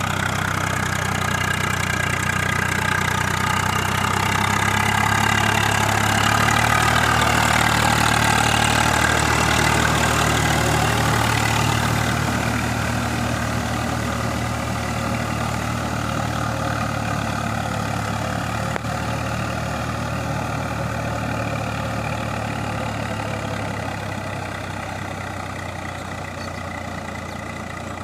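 Tractor diesel engine running steadily. It grows louder over the first several seconds, then fades gradually.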